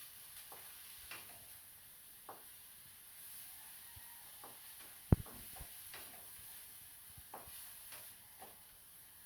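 Onions and seasoning frying in hot oil in a pot: a faint steady sizzle, with a utensil stirring and clicking against the pot and one sharp knock about five seconds in.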